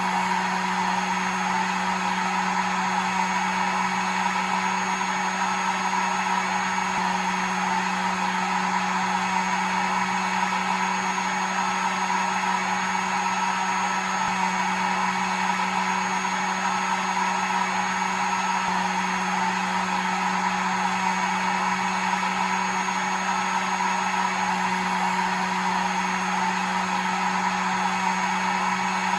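Hair dryer running steadily: an even blowing noise with a low motor hum and a faint high whine, unchanging.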